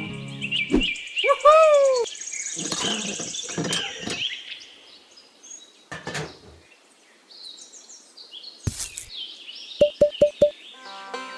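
Birds chirping and tweeting, with a loud short call that rises and falls in pitch about a second and a half in, and four quick short calls near the end.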